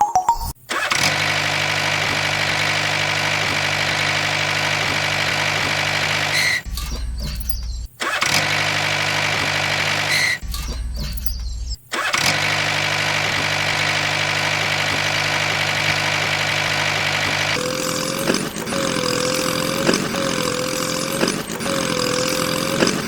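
Small motor of a model mini tractor running steadily with a high whine, broken twice by short cuts; from about 17 seconds in, a different motor sound whose pitch rises and dips in a regular cycle a little over a second long.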